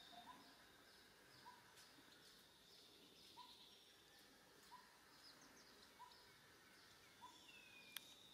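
Faint bird calls over very quiet surroundings: a short call repeating roughly every second and a bit, with many quick, high, downward-sliding notes. One sharp click comes near the end.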